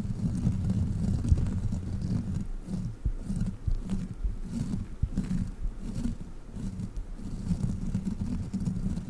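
Sticky gel crawler toy rubbed and pressed against a microphone: a low, uneven rumbling rub with scattered soft sticky crackles.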